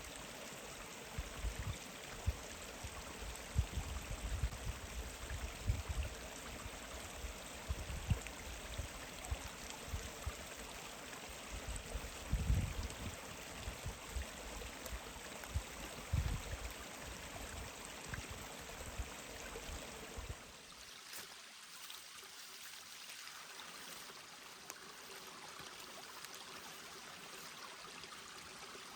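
Forest stream flowing, a steady rushing of water. For the first twenty seconds irregular low thumps come and go over it; about twenty seconds in the sound changes abruptly to a thinner, slightly quieter rush.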